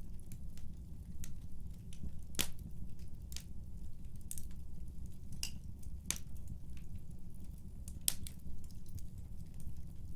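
Wood fire burning in a fireplace: irregular sharp pops and snaps over a steady low rumble of the flames. The two loudest pops come a couple of seconds in and near the end.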